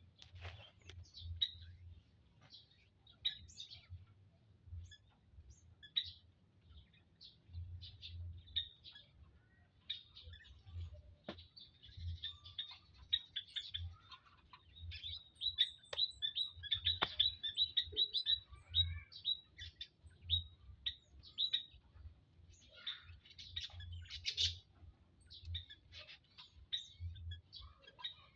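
Quail chirping: many short high chirps, which crowd into a quick run of calls in the middle.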